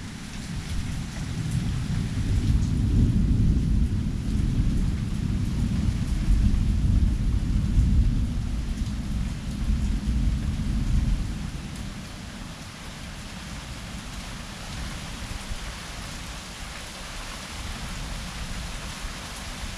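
A long rolling rumble of thunder that builds about a second in and fades out around eleven seconds in, over the steady hiss of heavy rain. The rain carries on alone after the thunder dies away.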